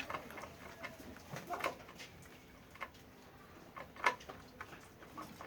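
Pigeons cooing, with a few scattered sharp knocks or clicks.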